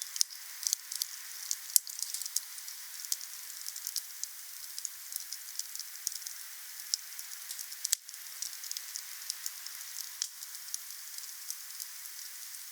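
Wood fire crackling: a steady hiss with many quick sharp pops and snaps, two louder cracks about two seconds in and about eight seconds in.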